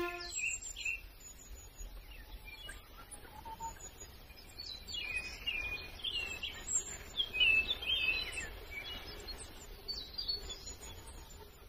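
Several birds chirping and calling: quick, thin high chirps throughout, and a busier run of calls in the middle. A steady low rumble sits underneath.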